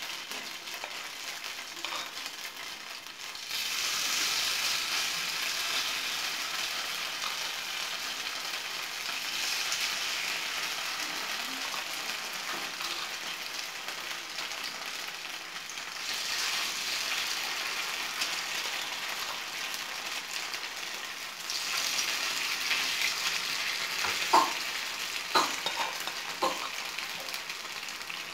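Noodle fritters shallow-frying in a little oil in a nonstick frying pan: a steady sizzle that gets louder in steps, about four times, as each new spoonful of noodle-and-cheese batter goes into the oil. Near the end come a few sharp clicks of the spoon against the pan.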